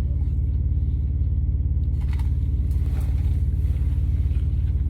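Semi truck's diesel engine idling: a steady low rumble with an even, fast pulse. A couple of faint clicks come about two and three seconds in.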